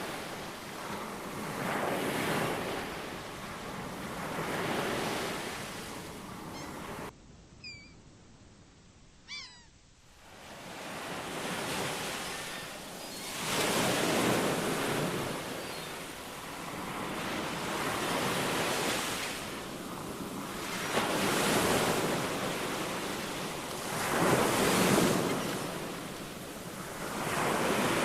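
Ocean surf: waves break and wash in, swelling and fading every two to three seconds. About seven seconds in, the surf cuts out abruptly for about three seconds, leaving a few short bird calls that slide down in pitch, and then the waves start again.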